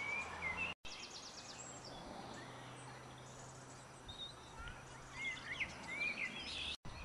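Small birds chirping and calling in short, quick phrases over quiet outdoor background noise. The sound cuts out completely for an instant twice, about a second in and near the end.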